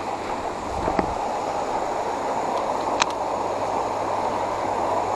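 High creek water rushing steadily, with a couple of sharp clicks about one and three seconds in.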